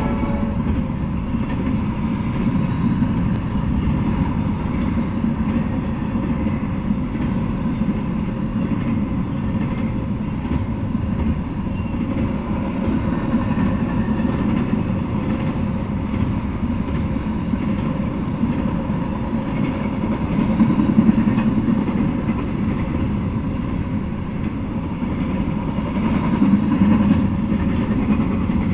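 Double-stack intermodal freight train rolling past on the tracks: a steady rumble of steel wheels on rail that swells a couple of times as cars go by.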